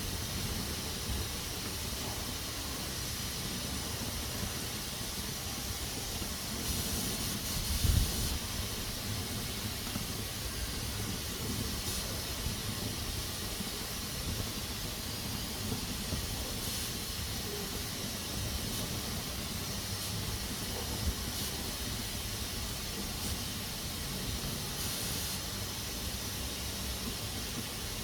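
Pressure cooker hissing steadily as steam escapes through its valve, with stronger surges of steam about 7 seconds in and near the end. A low thump about 8 seconds in is the loudest moment.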